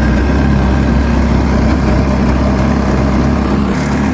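The jet boat's Yamaha engine idling steadily and loudly through its new exhaust, its idle just set higher so it keeps running.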